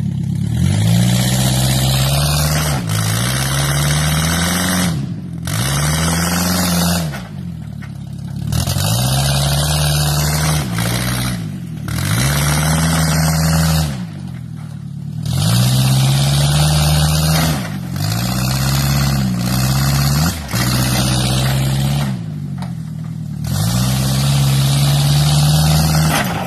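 Demolition-derby Toyota's engine revving hard and letting off over and over, its pitch climbing and dropping every two to three seconds, with short lulls between.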